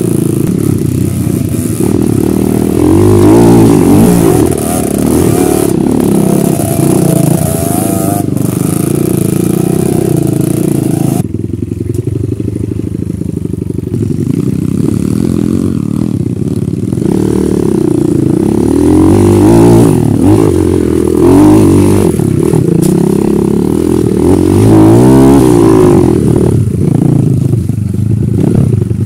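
Dirt bike engine running close by, revving up and falling back over and over as the bike is worked along a rough, steep trail.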